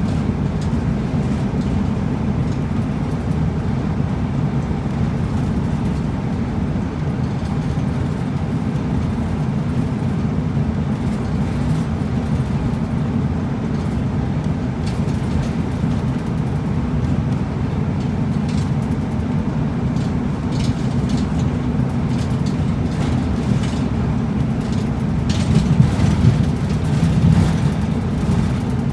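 A route bus driving, its engine and road noise heard from inside the cabin as a steady low rumble. A few brief rattles come through, and a louder bump or surge comes near the end.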